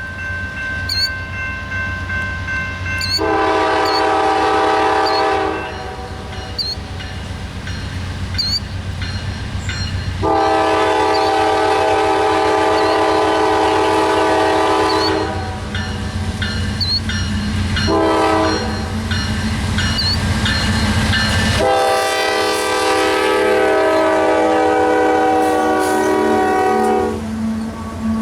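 Diesel freight locomotive's air horn sounding the grade-crossing signal, long, long, short, long, over the locomotive's low engine rumble. A bell rings about once a second under the first three blasts.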